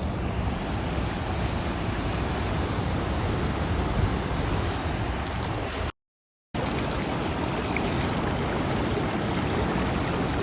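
Steady rushing water of the Maruia Falls and river, cut off for about half a second to total silence a little past the middle.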